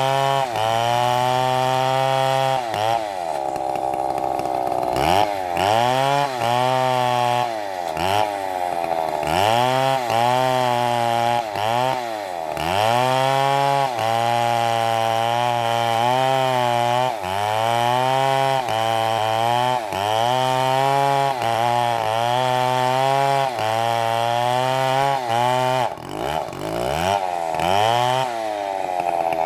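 Chainsaw running at high revs while cutting wood, its engine pitch dipping and recovering over and over, about once a second, as the chain bites in and eases off.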